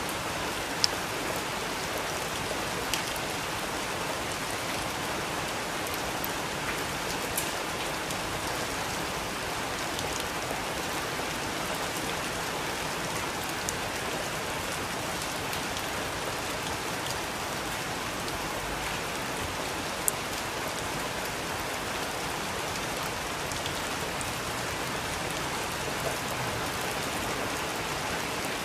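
Steady rain falling, an even hiss with now and then a single louder drop landing close by as a sharp tick.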